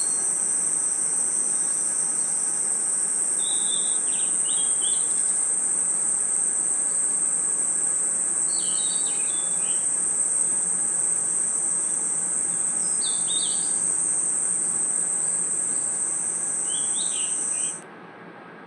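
Night insect chorus: a continuous high-pitched cricket trill, with short chirping calls lower in pitch repeating about every four to five seconds. Near the end the trill cuts off suddenly, leaving a quieter hiss.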